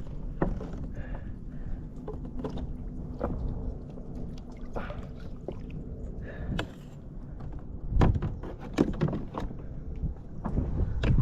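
Knocks and clatter on a fishing kayak over a steady low rumble of water and wind, with the loudest knocks about eight and nine seconds in and again near the end.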